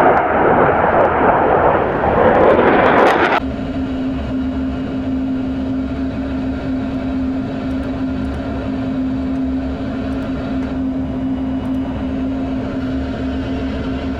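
Jet aircraft noise: a loud rushing roar for about three seconds that cuts off abruptly. It gives way to a quieter, steady drone with a constant low hum.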